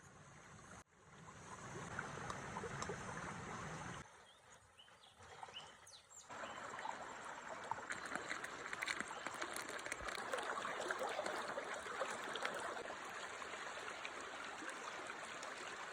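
Food sizzling and crackling in a pan over a campfire, a dense hiss full of fine pops, cut together from several short takes and fullest from about six seconds in.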